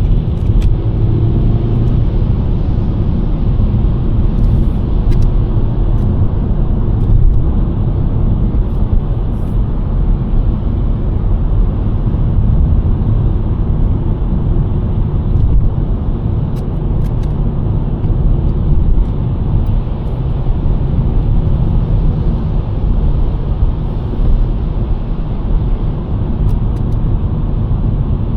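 A 2023 Nissan Sentra driving on a snowy road, with a steady low rumble of road and engine noise. A few faint brief ticks come and go over it.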